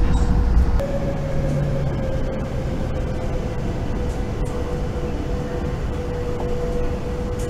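Shinkansen train cabin noise as the train slows into Shin-Aomori station. A thin, steady motor whine drifts slowly down in pitch over the running noise. The deep rumble drops away about a second in.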